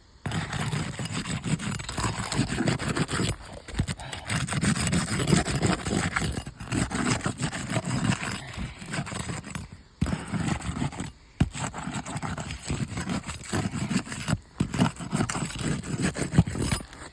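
Repeated scraping of a roof snake pry tool worked under asphalt shingles to break their sealant bond, in long spells with brief pauses between.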